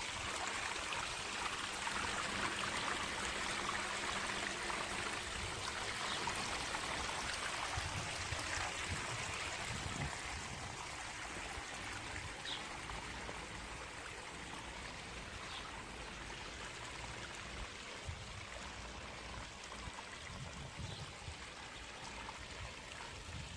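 Water from a small stone garden waterfall trickling and splashing into a pond, a steady running-water sound, a little quieter after about ten seconds. A few faint short high chirps sound over it.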